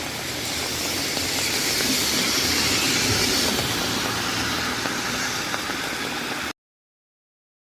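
A vehicle passing on a rain-soaked road: tyres hissing through standing water over a low engine hum, growing louder to a peak about three seconds in, then easing off. The sound cuts off abruptly near the end.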